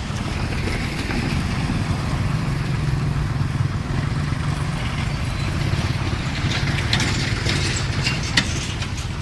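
A soil truck's engine running steadily with a low rumble, with a few clicks and rattles in the last few seconds and one sharp knock near the end.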